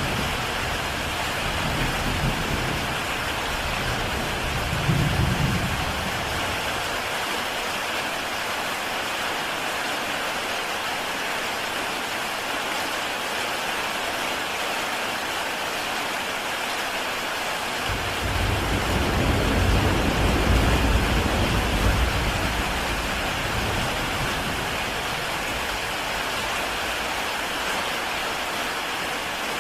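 Heavy rain falling steadily on a tile roof, an even hiss of drops. A low rumble sits under it at the start and fades after a few seconds, and a louder one sets in suddenly around the middle, swells and dies away over several seconds.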